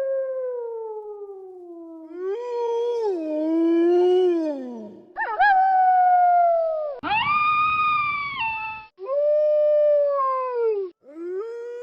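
Wolves howling: a run of long howls, one after another, each sliding and mostly falling in pitch, with abrupt breaks between them.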